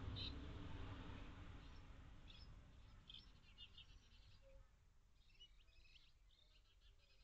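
Faint bird chirps in small clusters from about two and a half seconds in, over a low rumble that fades away during the first few seconds.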